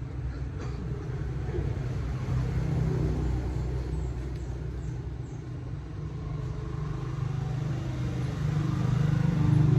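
Motorcycle engine running steadily while riding, a low rumble that grows louder toward the end.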